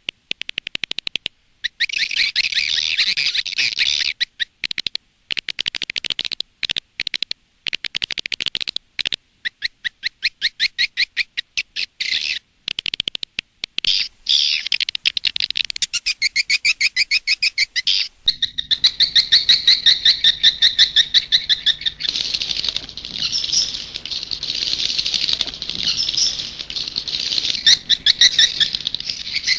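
Recorded swiftlet calls played as a lure for swiftlet farming: rapid trains of high, dry chirps and twitters. About two-thirds of the way through, the calls become a denser, unbroken twittering over a faint low hum.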